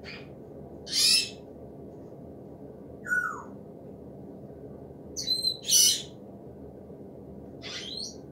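A bird calling: about five short, harsh squawks spaced a second or two apart, two of them close together in the middle. A steady low background hiss lies underneath.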